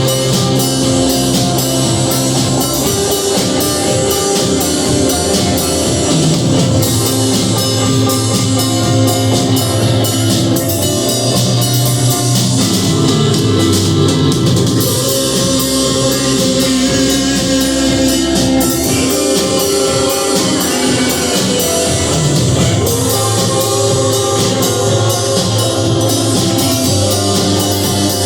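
Rock band playing a song, with a drum kit keeping a steady beat under guitars.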